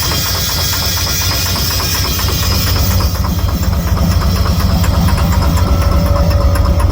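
Car engine running with a rapid, even knocking, along with a hiss that fades about halfway through. The engine sounds very bad, and the owner links the knock to a lack of power, with the car barely moving.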